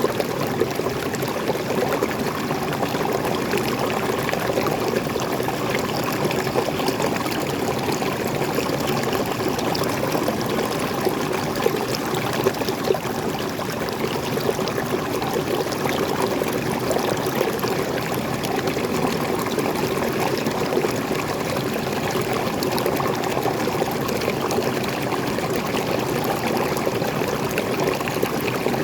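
Freshwater from a small forest waterfall pouring and splashing into a stream, a steady rush with fine splashing and no change.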